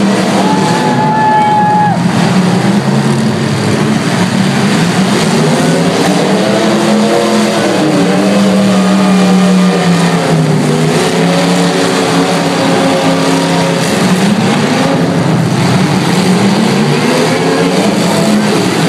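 Demolition derby cars' engines running and revving, several at once, their pitch rising and falling as they drive. A single steady tone sounds for about a second and a half near the start.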